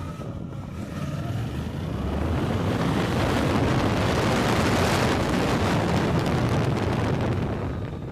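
Suzuki GSX-8R's two-cylinder engine pulling the bike along at speed, buried in heavy wind rush on the microphone. The rush builds from about a second in, is loudest through the middle, and eases off near the end.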